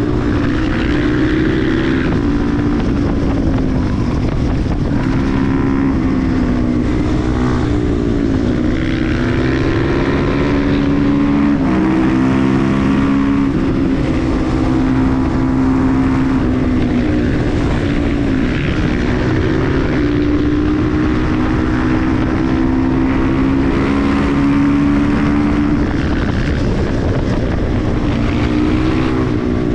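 KTM 350 EXC-F supermoto's single-cylinder four-stroke engine running hard while riding, its revs holding steady for stretches and dropping and climbing again several times.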